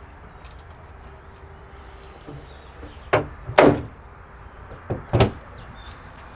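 Four short knocks in two pairs, about three and five seconds in, the second knock the loudest and slightly drawn out, like a door or hatch being shut.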